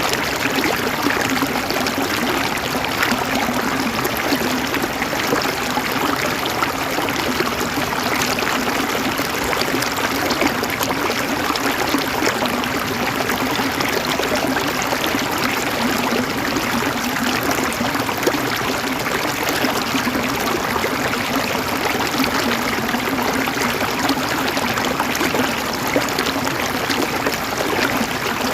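River water flowing over rocks, a steady babbling rush.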